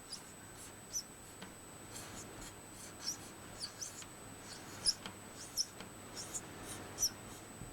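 Marker pen writing on a whiteboard: about a dozen short, squeaky strokes at irregular intervals.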